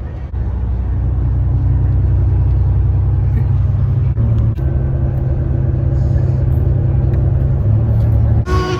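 Steady low rumble of a motor vehicle's engine and road noise, its hum shifting slightly in pitch about four seconds in and again near the end.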